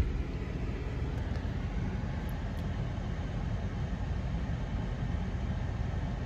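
A car's engine idling, heard from inside the cabin as a steady low rumble.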